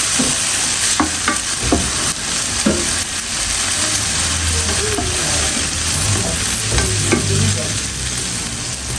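Food frying in hot oil in a cooking pot, with a steady sizzle and a few clicks of a spoon stirring against the pot. The sizzle drops away at the very end.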